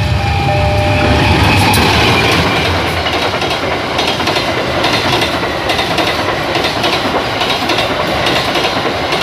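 A locomotive-hauled passenger train passing close by: the locomotive's horn ends about a second in, then the coaches' wheels rumble and clatter in a steady clickety-clack over the rail joints.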